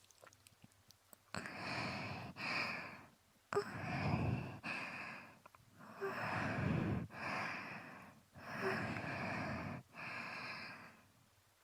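Close-up breathy mouth and breath sounds into a binaural microphone, as in ear-licking ASMR: about eight sighing sounds of roughly a second each, coming in pairs with short silences between them.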